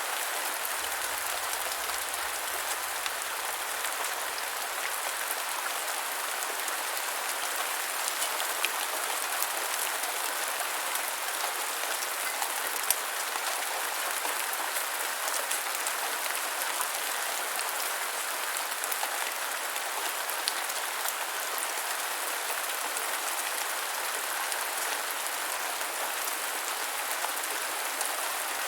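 Steady gentle rainfall, an even patter of drops with a few sharper single drop hits now and then.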